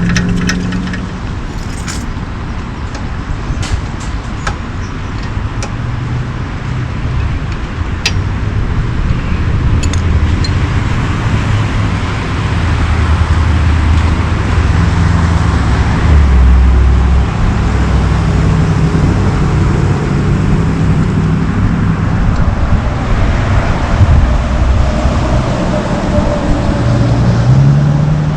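Vehicles running and passing, with a steady low rumble that grows louder partway through, and a few sharp clicks in the first several seconds.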